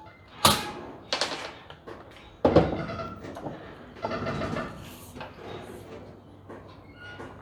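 A few loud knocks and clanks from work on the truck bed as the auxiliary fuel tank is set and bolted down: one sharp hit, a short rattling clatter, a heavier thud, then a lighter knock.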